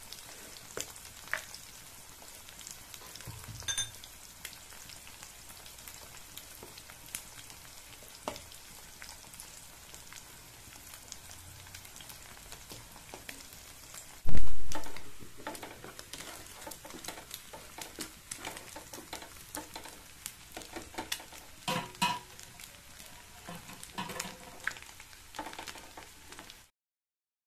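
Eggs and red and yellow capsicum frying in oil in a nonstick pan: a steady sizzle with scattered pops and crackles. There is a loud low thump about halfway through, and the sound stops abruptly near the end.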